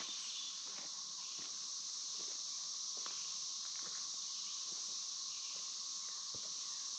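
Steady high-pitched insect chorus, with faint scattered footsteps.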